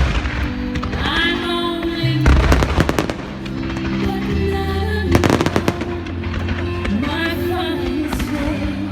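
Aerial fireworks going off in clusters of sharp bangs and crackles, right at the start, about two seconds in and again about five seconds in, over loud music with held notes.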